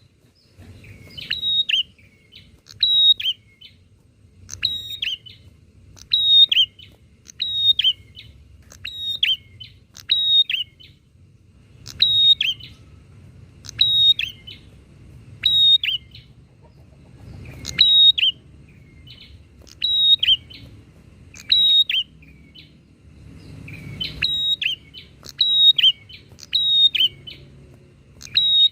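Prinias (prenjak) calling back and forth: loud, sharp chirps that drop in pitch, repeated about once a second or a little slower.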